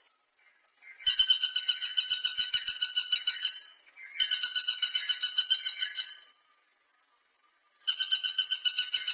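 Woodpecker calling in fast, evenly pulsed series, three bouts of two to three seconds each with short silent pauses between; a vocal call, not drumming on wood.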